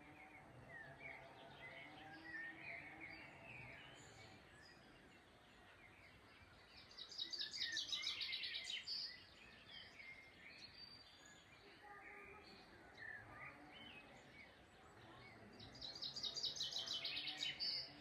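Songbirds chirping and singing over a faint outdoor background, with two louder bursts of a fast, high trilling song, one about seven seconds in and another near the end.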